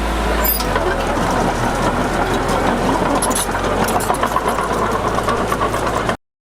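Heavy diesel engine of earth-moving machinery running steadily, with light clatter over it. Its low drone shifts less than a second in, and the sound cuts out abruptly near the end.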